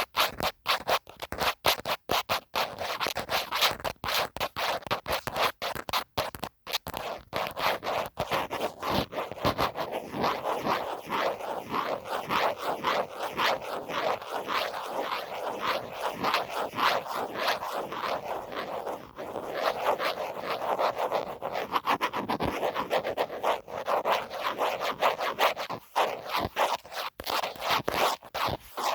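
A phone case being scratched in quick, rapid strokes, several per second. There are brief pauses in the first few seconds, then the scratching runs on almost without break.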